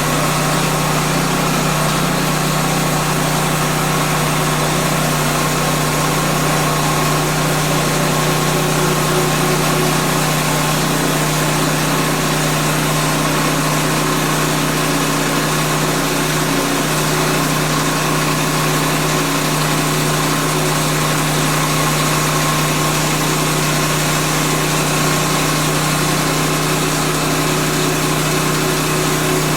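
Woodland Mills portable bandsaw sawmill's engine running steadily at an even pitch.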